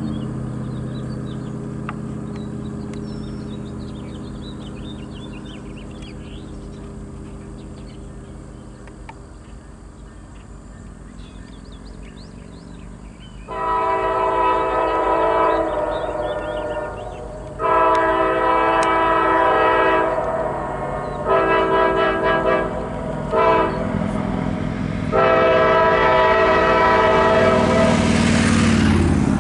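Diesel locomotive air horn sounding a chord of several notes in a sequence of blasts, two long, two short and a long one, close to the long-long-short-long grade-crossing signal. Before it, the low rumble of a train fades, with birds chirping.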